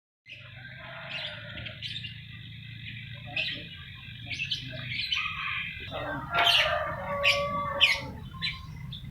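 Lovebirds chattering continuously, with several loud, shrill calls about six to eight seconds in.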